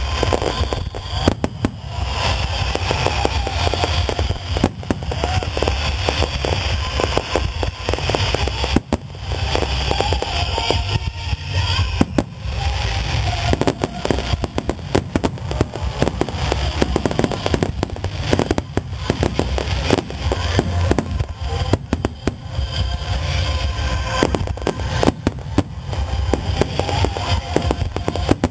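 Large aerial fireworks display: a dense, continuous barrage of shell bursts with crackling and a constant low rumble.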